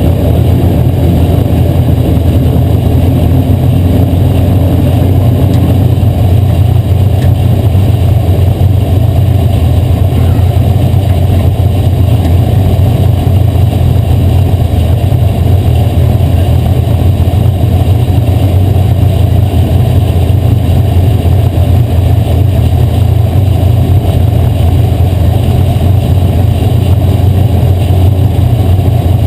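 Asphalt modified race car running at speed, heard as a loud, steady engine drone.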